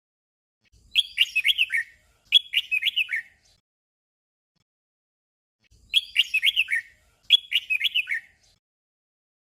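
Red-whiskered bulbul singing a short whistled phrase twice in quick succession, the 'double' song, then the doubled phrase again about five seconds later.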